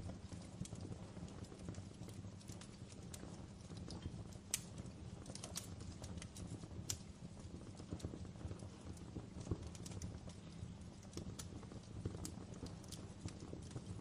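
Wood fire crackling in a fireplace: a steady low rumble with scattered sharp pops and snaps, the loudest about four and a half seconds in and again near nine and a half seconds.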